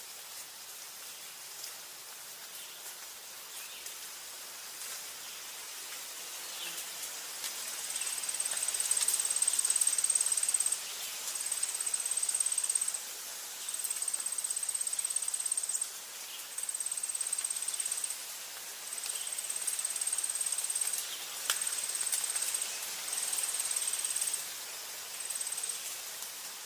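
Forest ambience with a steady hiss and faint scattered ticks. About a third of the way in, an insect starts a high, shrill trill that comes in runs of one to three seconds with short pauses between them.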